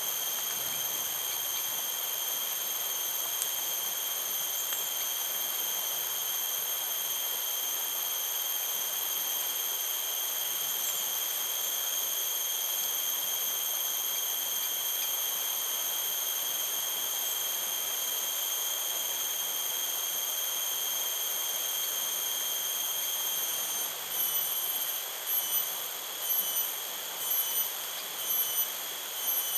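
Insects droning in one steady high-pitched tone over a constant hiss of outdoor ambience. Near the end the drone breaks into regular pulses, about one a second.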